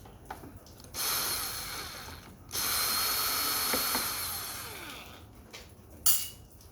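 Screws being backed out of a wall-mount air conditioner's plastic housing with a ratcheting or powered screwdriver: two mechanical runs, one of about a second and a half and a longer one that fades out, then a sharp click near the end.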